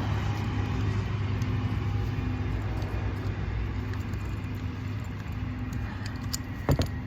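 A steady low hum from a running motor or engine that eases off slightly, with two sharp knocks near the end.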